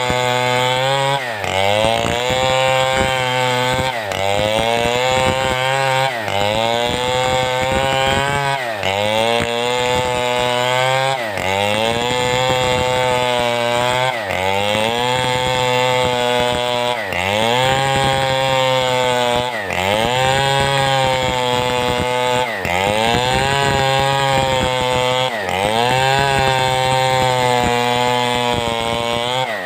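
Large two-stroke chainsaw of the Stihl 070 type (New West 707) running at high revs while ripping timber into beams, its engine pitch dipping and recovering roughly every two and a half seconds as the cut loads it. Near the end the engine note drops away.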